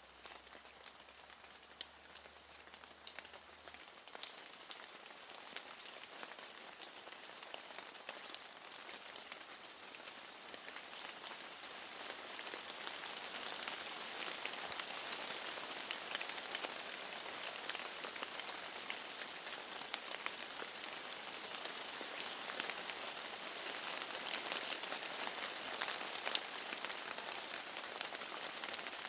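Steady rain falling, a soft hiss scattered with many small drop ticks, growing heavier about twelve seconds in.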